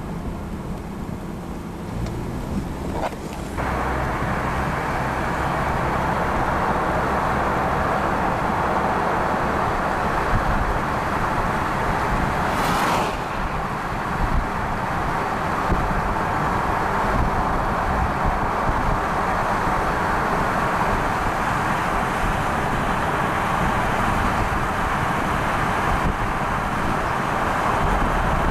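Steady rushing road and wind noise of a vehicle on the move, with a low engine hum at first. The noise rises suddenly a few seconds in and then holds, with one brief whoosh about halfway.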